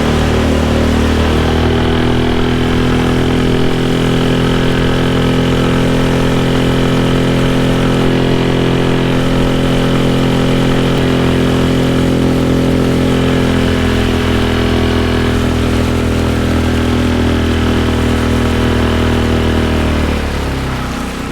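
Skiff's outboard motor running steadily under way on a test run, its pitch settling higher about a second in and dropping as it is throttled back near the end.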